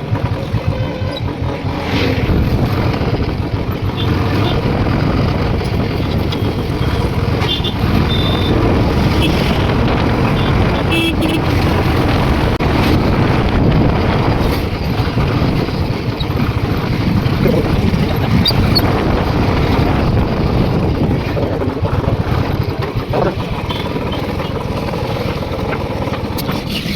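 Motorcycle running at riding speed, its engine mixed with steady wind and road rush.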